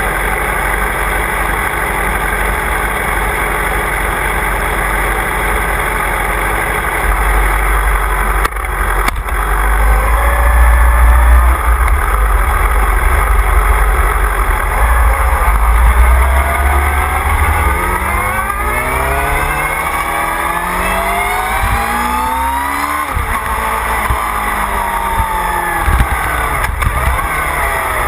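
Motorcycle engine heard from an onboard camera under a heavy low wind rumble. In the second half the engine note climbs in pitch for several seconds, then falls again.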